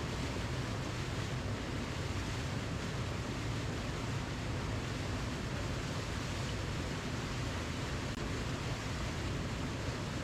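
Waterfall rushing: a steady, unbroken roar of falling water, heaviest in the low range.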